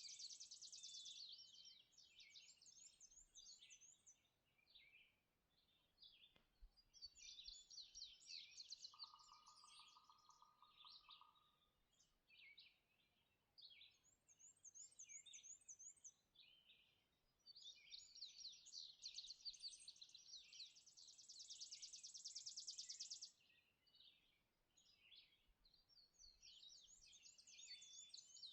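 Dawn chorus of several songbirds singing over one another: high, quick warbles, chirps and trills, with a long rapid trill a little after the middle. About a third of the way in, a lower, evenly pulsed trill sounds for a couple of seconds.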